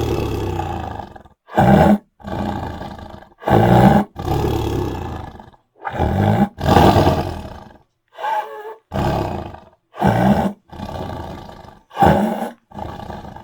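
A large animal roaring over and over: about a dozen loud, deep roars, each up to about a second and a half long, separated by short pauses.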